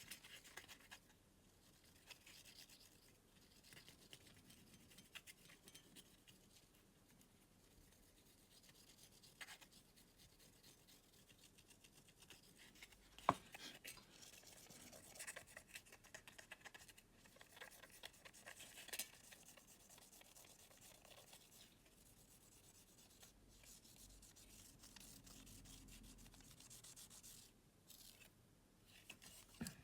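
Faint, irregular rubbing and scratching of small parts being handled during a remote control repair, with scattered light clicks and one sharper click about thirteen seconds in.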